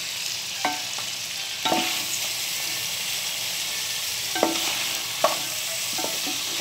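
Crab pieces frying and sizzling in melting butter in a pot, stirred with a wooden spoon. About four sharp knocks, each with a short ring, as the spoon and crab shells hit the pot.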